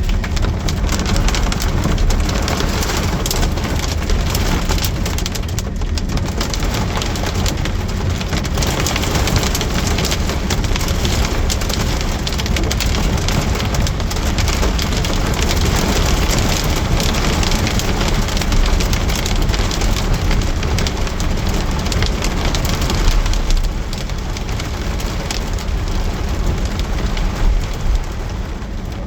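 Heavy rain pouring down in a storm, a dense steady hiss and patter with a low rumble underneath.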